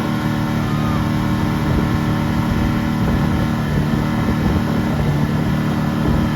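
Motorboat engine running steadily, a constant even drone.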